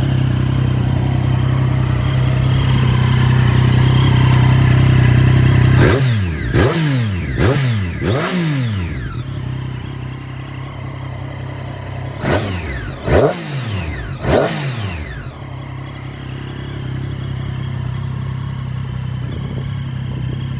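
2017 Triumph Daytona 675 R's 675 cc inline-three engine idling, then blipped three times in quick succession about six seconds in and three more times about twelve seconds in, each rev rising sharply and dropping back to idle.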